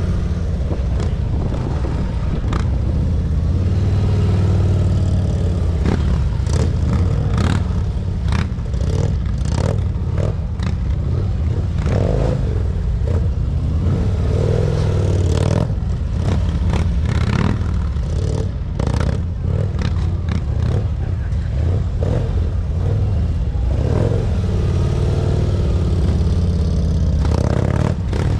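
Motorcycle engine running at low speed with small throttle changes, a steady low rumble throughout. Frequent short clicks and scraping clatter sound over it.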